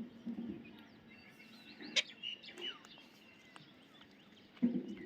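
Parrots chirping and whistling in many short calls, with a sharp click about two seconds in and brief low sounds near the start and near the end.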